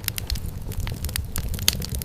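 Wood fire crackling: a steady low rumble of burning with scattered sharp pops and snaps, a few each second.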